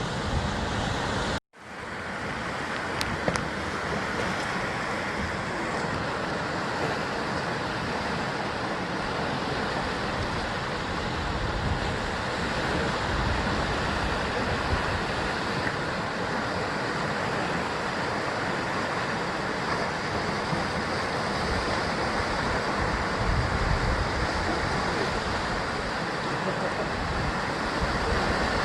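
Sea waves surging and breaking against a rocky basalt shore in a steady, continuous wash. About a second and a half in, the sound drops out for a moment and swells back in.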